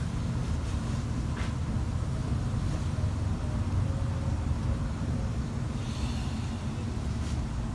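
Steady low rumble, with a faint click about a second and a half in.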